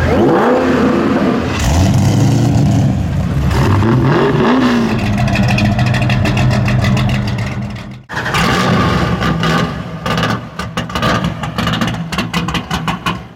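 Muscle car V8 engines: the first revs up and down several times and then runs on steadily. After a sudden cut about eight seconds in, a second engine runs with a rapid, pulsing exhaust beat.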